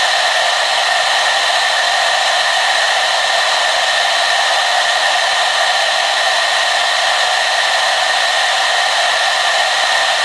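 Hair dryer running steadily: an even, unchanging rush of air with a faint high hum from its motor and fan.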